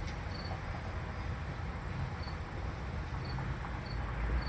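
A cricket chirping in short pulsed chirps, irregularly spaced with gaps, over a low steady rumble.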